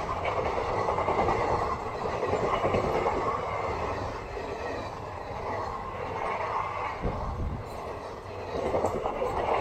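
Passenger coaches of a fast express train rushing past close by: a steady rumble and rush of wheels on rail, with a few sharp wheel clicks near the end.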